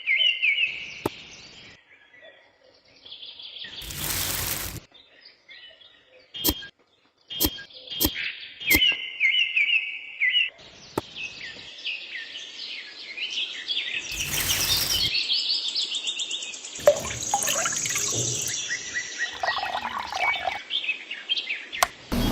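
Small birds chirping and twittering in quick runs of short notes, with a few sharp clicks and two brief bursts of noise.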